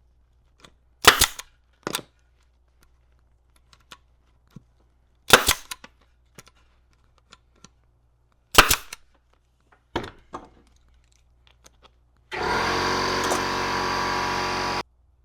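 A pneumatic staple gun fires several sharp shots, driving staples through the seat cover into the pan. Then an air compressor runs with a steady hum for about two and a half seconds and cuts off suddenly near the end.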